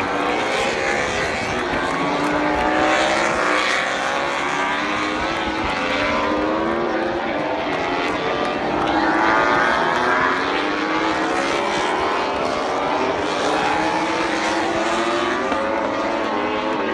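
Several MotoGP racing motorcycle engines at high revs, pitch climbing and dropping repeatedly and overlapping as bikes shift gears and pass by.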